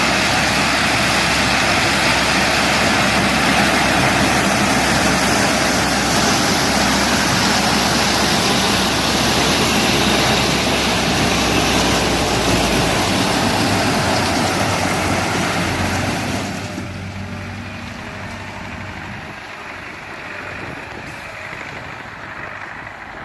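Tractor-driven corn harvester running: a loud, steady mix of diesel engine and harvesting machinery noise. About 17 s in the sound drops off sharply and carries on more quietly.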